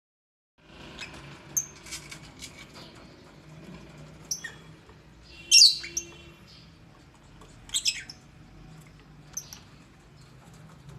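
Lovebirds giving short, shrill chirps and squawks every second or two, the loudest about halfway through and a pair near the end.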